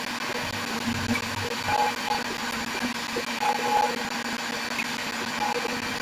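A steady mechanical whir with a constant low hum, like a small electric motor running.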